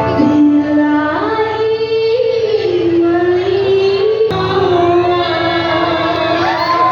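Choir singing long held notes that slide from one pitch to the next, with female voices prominent.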